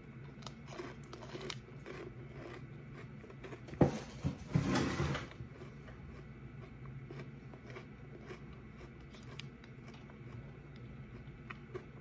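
Close-miked chewing of a crunchy biscuit snack, with small mouth clicks, and a louder crackling burst about four seconds in.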